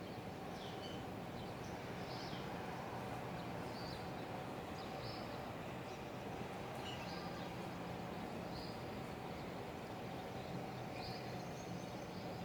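A bird giving short, high chirps about once a second over a steady background hiss.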